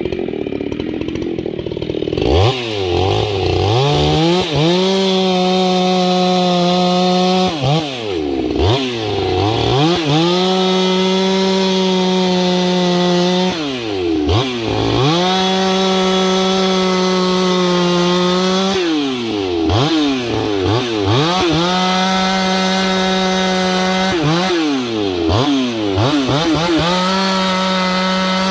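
Husqvarna 390XP two-stroke chainsaw running hard. It climbs to a high, steady engine pitch and holds it for a few seconds at a time, then drops back and climbs again about five times. The saw has a replacement carburetor fitted and is being tested.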